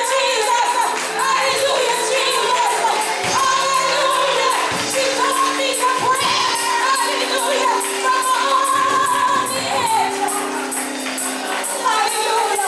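Gospel singing in a church service: a voice line over held chords, with a tambourine keeping a steady beat.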